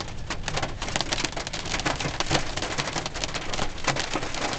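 Dense, dime-sized and larger hail pelting a car's roof and windows, a fast, unbroken clatter of hard ice impacts heard from inside the car.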